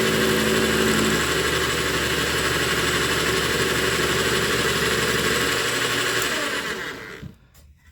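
Metal lathe running with a steady mechanical hum and whine. Some of the tones drop away about a second in, and the machine then winds down and falls quiet about seven seconds in.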